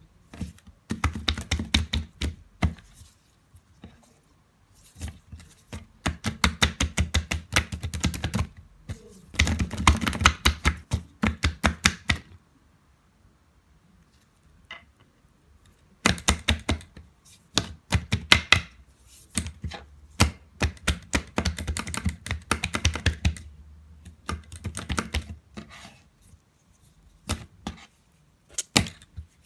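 Rapid sharp tapping clicks, several a second, in bursts lasting a few seconds with short pauses between them.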